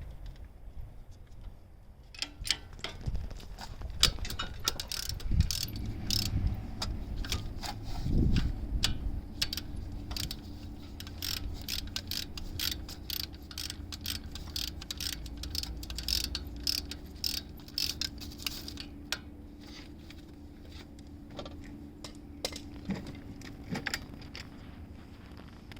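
A socket ratchet clicking in rapid runs while engine-mount bolts are loosened, with clinks of metal tools. A steady low hum sits underneath from a few seconds in.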